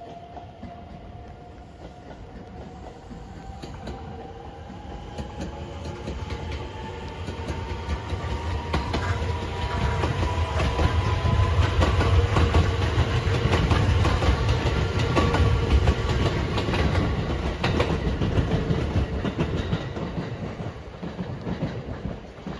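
A JR 227 series 'Urara' electric multiple unit passing close by: its whine rises in pitch as it approaches, and the wheels clatter over the rail joints. The rumble and clatter are loudest in the middle and fade away near the end.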